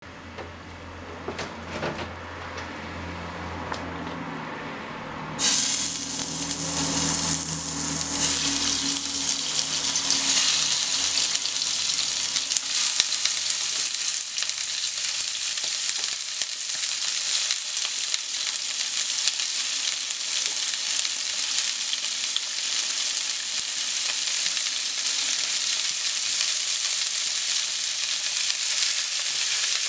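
Pork-wrapped potato sticks frying in hot oil in a nonstick frying pan. Quiet at first with a low hum, then a loud sizzle starts suddenly about five seconds in, as the first roll goes into the oil, and carries on steadily as more rolls are laid in, with occasional light clicks.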